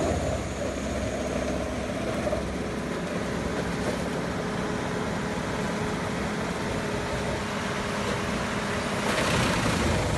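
Heavy wood-processing machine running steadily, an even engine sound with faint steady hum tones. About nine seconds in, a louder rushing hiss swells up.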